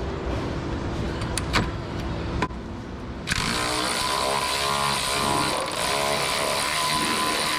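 A few sharp metal clicks of hand tools, then about three seconds in a steady machine noise starts abruptly and keeps running.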